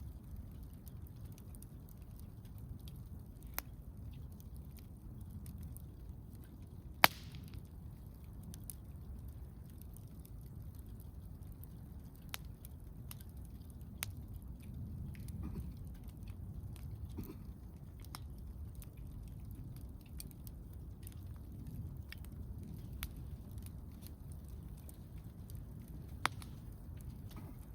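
Wood campfire crackling, with scattered sharp pops over a low steady rumble; one much louder pop about seven seconds in.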